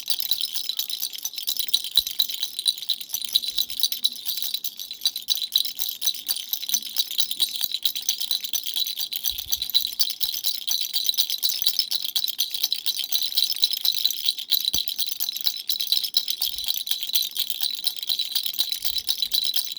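A baby's dumbbell-shaped rattle shaken without pause: a dense, bright, high-pitched rattling of small beads.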